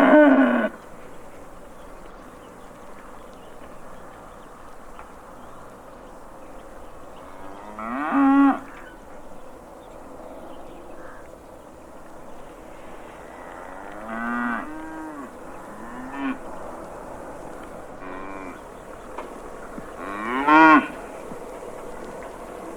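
Cattle mooing: about five separate moos, loud ones at the start, about 8 s in and about 20 s in, with quieter, shorter ones around 14 to 16 s in, over a steady background hiss.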